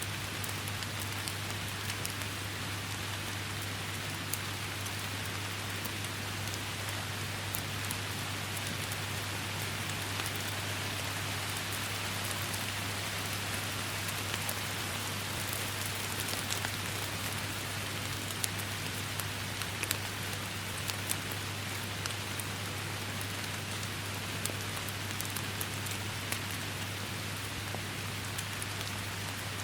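Steady, dense rain falling, with many individual drops ticking sharply close by. A steady low hum runs underneath.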